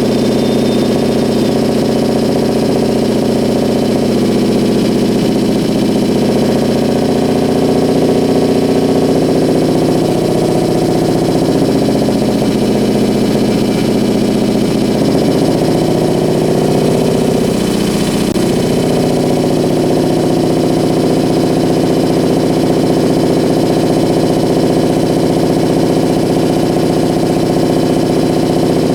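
Amplified electrical interference from compact fluorescent bulbs that cannot dim properly, picked up by exposed guitar cables and shaped with dimmer switches. It is a loud, dense buzzing drone of several stacked pitches, unprocessed. About two-thirds of the way through, the pitches briefly sweep down and back up.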